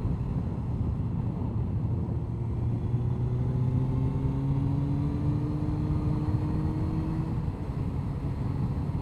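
Honda CBR1100XX Blackbird's inline-four engine running steadily under way, with wind and road noise. Its note rises slowly as the bike picks up speed, then eases off about seven seconds in.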